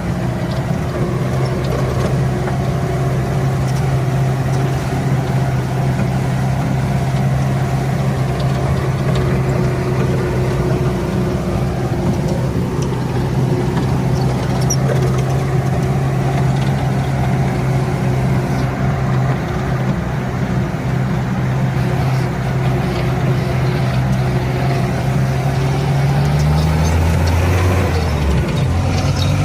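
Jeep engine running steadily as the vehicle drives, a constant engine note; near the end the note drops lower for a couple of seconds, then rises again.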